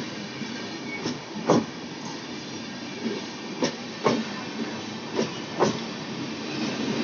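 Avadh Assam Express passenger train passing, with a steady rumble and its wheels clacking over a rail joint in pairs of sharp clacks about half a second apart, recurring every couple of seconds.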